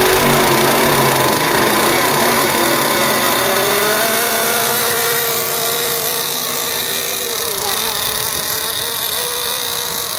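Small nitro engine of a Team Associated MGT 8.0 RC monster truck running with a high-pitched whine, its pitch rising about halfway through and then holding steady.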